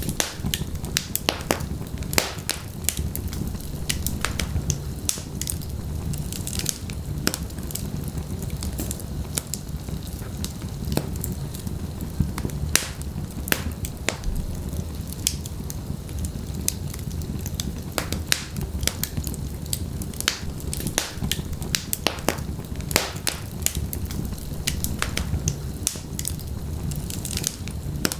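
Wood fire burning in a fireplace: logs crackling and popping with many sharp irregular snaps over a steady low rumble of flame.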